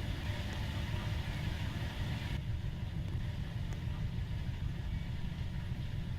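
Washing machine running with a steady low hum, a layer of hiss over it dropping away about two seconds in.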